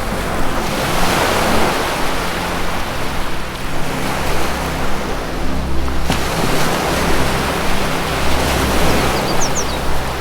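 Ocean waves washing in, swelling and easing off every few seconds, over a low sustained music drone of held notes that change from time to time. A couple of brief high bird chirps come near the end.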